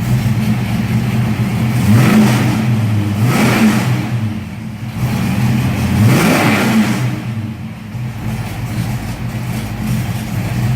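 1984 Ford Mustang GT350's engine through its stock exhaust, idling and then blipped twice, each rev rising and falling back to idle.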